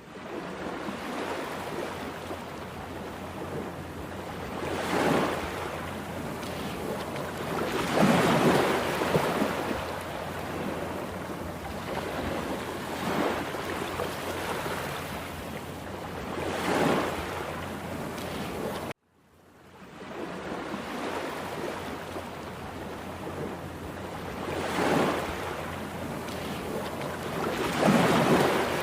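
Heavy surf on a rough sea: waves breaking in repeated loud surges every few seconds over a continuous rushing wash. Just past halfway the sound cuts out abruptly and fades back in.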